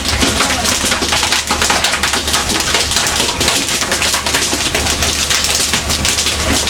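Fishing boat at sea: a steady low engine drone under dense, rapid clattering and splashing noise.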